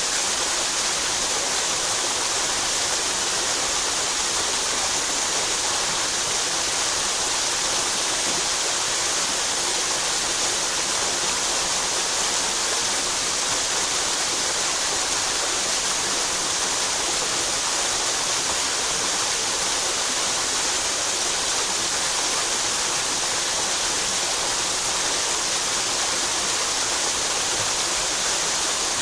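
Headwater mountain stream rushing steadily over rocks, a constant hiss-like flow of water.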